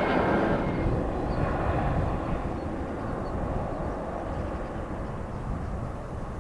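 Jet airliner engines: a broad rushing noise with a faint whine that fades within the first two seconds, then the noise slowly dies away as the aircraft moves off.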